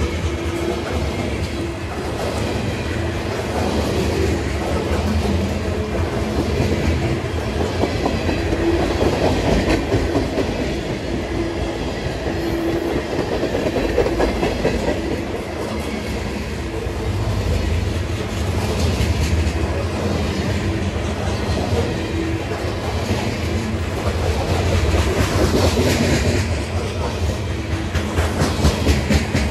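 Long freight train rolling past at speed: a steady rumble of steel wheels with rapid clickety-clack over the rail joints.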